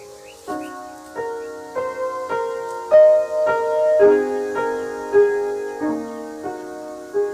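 Piano playing a slow, gentle melody: single notes and soft chords struck about every half second to second, each ringing and fading.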